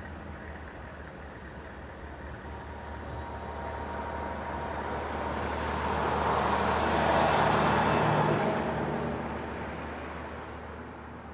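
Four-engine turboprop of a C-130 Hercules passing by on takeoff, growing louder to a peak about seven seconds in, then fading.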